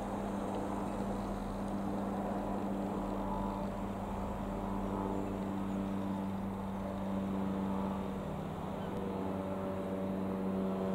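Piper PA-28-180 Cherokee's four-cylinder Lycoming O-360 piston engine and propeller running with a steady drone.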